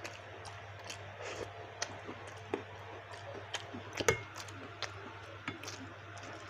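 Close-up eating sounds of a person chewing baso aci: soft wet mouth sounds and scattered small clicks, with a sharper click about four seconds in, over a faint low hum.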